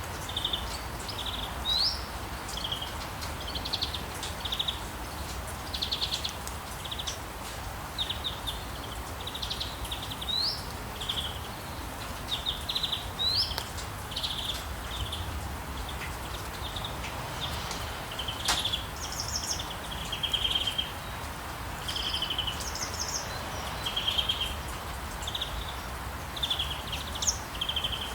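Birds chirping and calling: short rapid trills and a recurring rising whistled note, over a steady background hiss.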